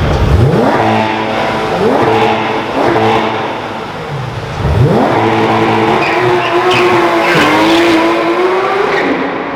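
A car engine revving hard under full acceleration, its pitch sweeping up again and again as it climbs through the gears, then holding a steady high note for several seconds.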